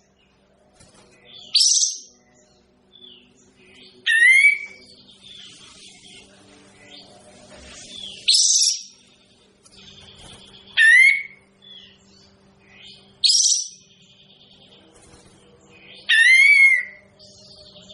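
Kapas tembak (a bulbul) calling in short, loud phrases every two to three seconds, six in all. Some phrases are a quick high rising note. Others are a falling run of notes ending on a lower whistled note. A faint steady hum runs underneath.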